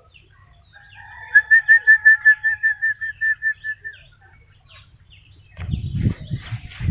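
A bird calling a rapid run of about fifteen short, identical whistled notes, some five a second, lasting a couple of seconds. Near the end there is low thumping and rustling noise.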